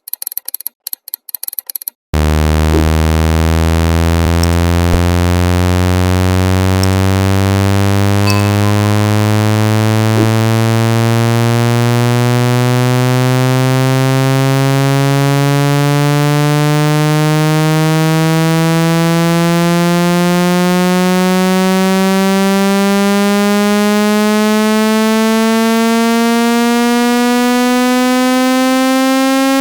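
Speaker-cleaning tone: rapid electronic clicking for about two seconds, then a loud, buzzy synthesized tone that glides slowly and steadily upward from a low hum. It is meant to vibrate water and dust out of a phone speaker.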